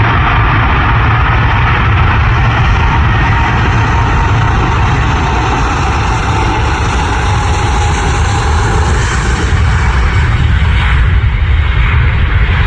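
Landing aircraft's engines running loud and steady over a heavy low rumble, with a thin high whine that slowly falls in pitch; the noise swells near the end.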